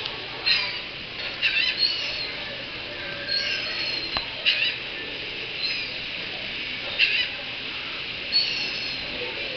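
Seagulls calling: a series of short, high-pitched cries every second or so, over a steady background hiss.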